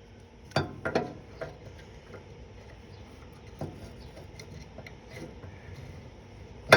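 Scattered sharp clicks and knocks of tools and small engine parts being handled during carburetor fitting, with a louder clatter right at the end.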